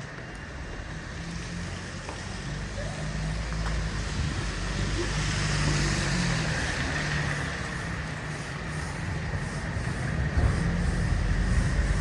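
Road traffic: a motor vehicle passing, its engine rumble and road noise swelling to a peak about halfway through and fading, then another building up near the end.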